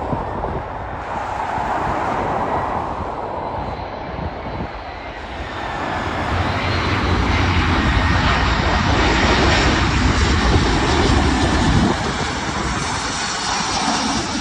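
Airbus A340 four-engine jetliner going by, the jet engine noise building about halfway through and dropping back near the end.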